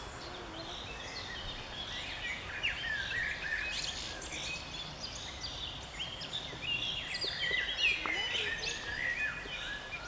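Many wild birds calling at once, a busy mix of quick chirps and short whistled notes, some rising and some falling, over steady background noise.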